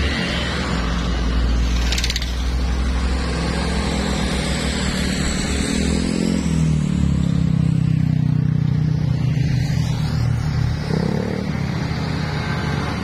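Motor vehicle engines running on a road, a low engine note that rises in pitch about six seconds in, with a short high hiss about two seconds in.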